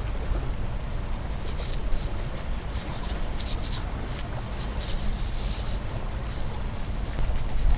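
Strong wind buffeting the microphone as a steady low rumble, with short crisp rustles coming irregularly every second or so.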